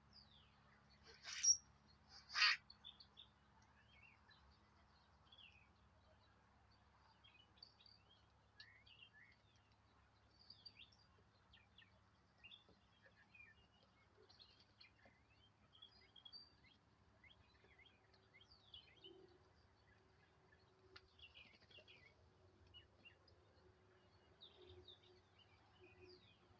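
Two loud raven calls about a second apart near the start, then faint, scattered chirping of small birds.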